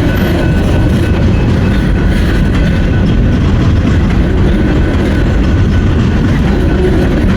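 Norfolk Southern freight train cars rolling past on the rails, loud and steady.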